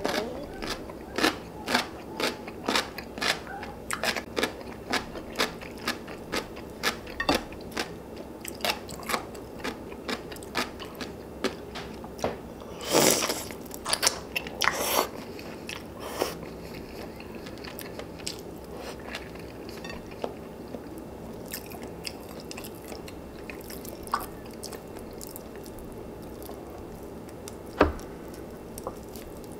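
A person chewing and biting food close to the microphone: a quick run of short wet chewing clicks, about two a second, with a couple of louder, longer bites around the middle, thinning out to occasional clicks in the second half.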